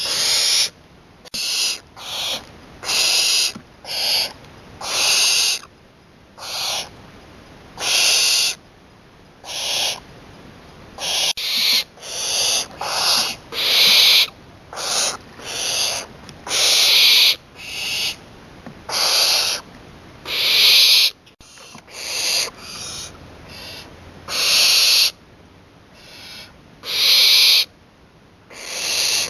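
Young barn owl calling with a long series of short hissing screeches, about one a second, some louder and some fainter. These are the begging hiss-calls of a well-grown owlet near fledging.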